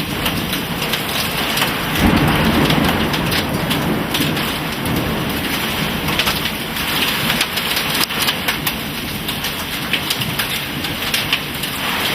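Downburst thunderstorm: heavy rain and hail pelting down, with sharp hailstone hits throughout. A louder surge of wind-driven noise comes about two seconds in.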